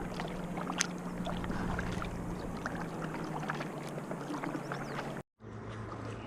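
Water lapping against a plastic kayak's hull, with small scattered clicks and knocks over a steady low hum. The sound drops out for a moment near the end.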